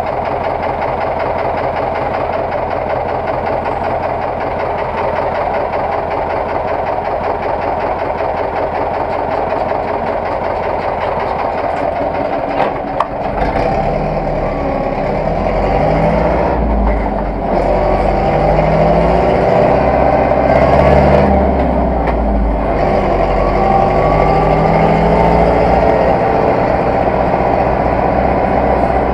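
Zetor tractor diesel engine running steadily. About halfway through there is a clunk, after which the engine gets louder and deeper, its pitch rising and falling as it works.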